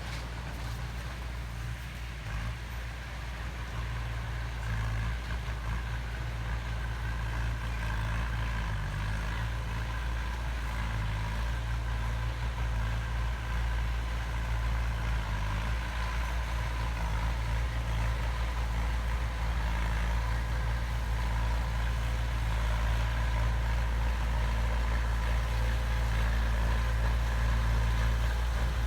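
Heavy diesel engine of construction machinery running steadily at a low, even pitch, growing slowly louder.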